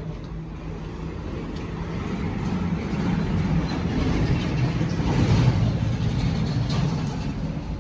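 Motor vehicle running, engine and road noise swelling to a peak about five seconds in and then easing off.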